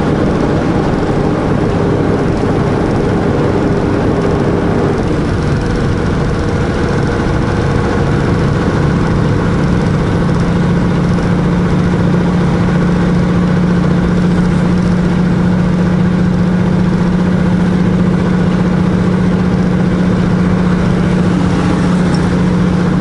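Diesel engine of a semi truck running steadily while driving, heard from inside the cab; its note changes about five seconds in and then holds steady.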